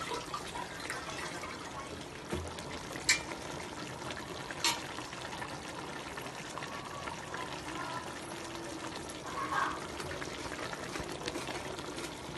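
Steady trickling of water, with two sharp clicks about three and four and a half seconds in.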